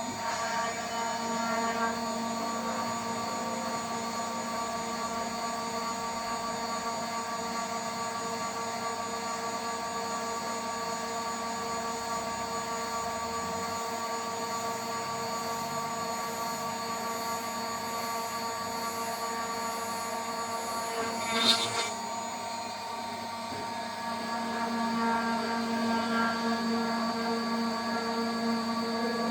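DIY CNC spindle running at about 14,000 RPM with a steady whine as its 3 mm three-flute end mill cuts. A brief louder screech comes about three-quarters of the way through, and the cutting noise grows louder near the end.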